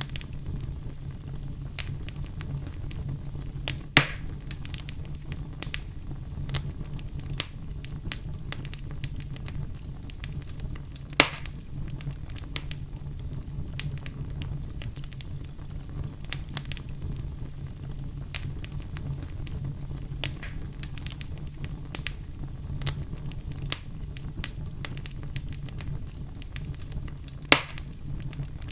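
Wood fire crackling in a fireplace: a steady low rumble under many scattered sharp crackles, with three louder pops spread through.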